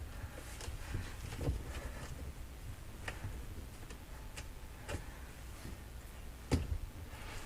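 Scattered light clicks and taps, a few seconds apart, as a new rubber dishwasher door seal is pressed into its groove around the tub, over a low handling rumble.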